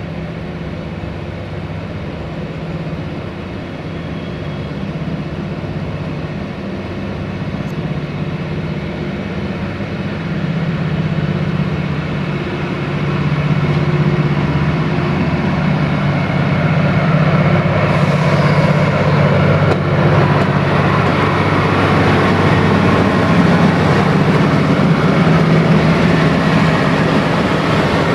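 Locomotive-hauled train moving slowly through the station, a steady low hum with running noise that grows steadily louder, swelling from about halfway through as it draws near.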